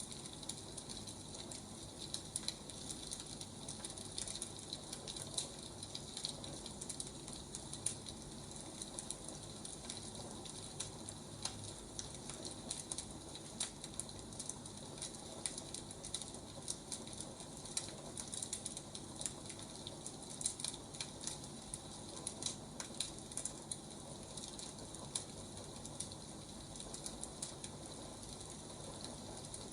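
Wood fire crackling, with a steady hiss and many small irregular pops and snaps.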